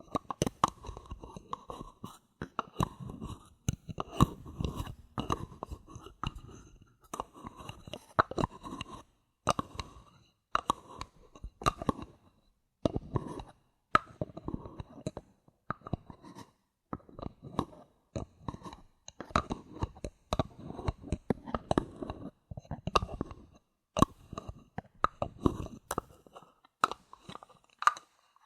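Bottle caps handled close to the microphone: a dense stream of sharp clicks, taps and crackly scratching in quick clusters, with short pauses between them.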